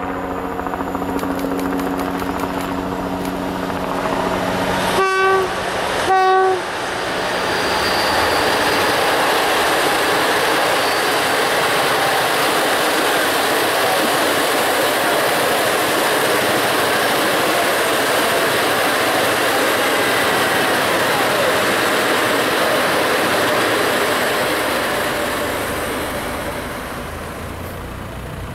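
PKP Intercity EP07 electric locomotive approaching with a steady hum, sounding two short horn blasts about five and six seconds in. Its train of passenger coaches then rolls past with a loud, steady noise of wheels on the rails that fades near the end.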